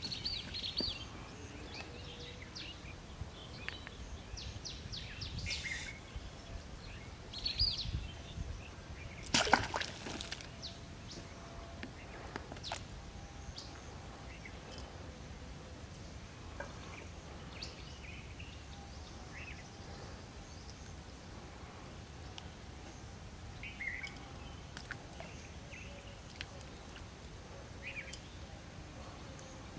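Quiet outdoor background with scattered short bird chirps, and one brief louder noise about nine seconds in.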